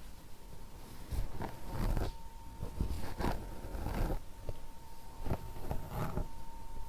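Irregular soft scratchy brushing and rustling strokes close to the microphone, about a dozen over several seconds, with a faint steady high hum underneath.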